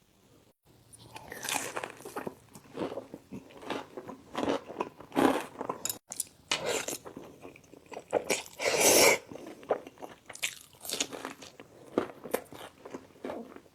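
Close-miked eating: crunchy bites and chewing in a string of separate bursts, the loudest about nine seconds in.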